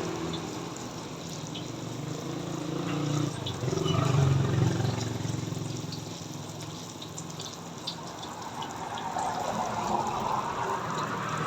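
Banana turon frying in hot oil: a steady sizzle with scattered small pops, over a low steady hum.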